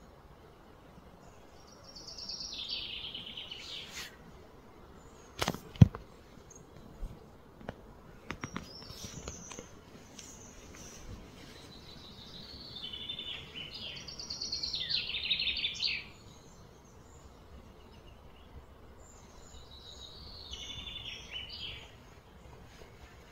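A bird singing three fast trilling phrases, each a couple of seconds long and falling in pitch, over outdoor background noise. A single sharp click about six seconds in is the loudest sound, followed by a few fainter clicks.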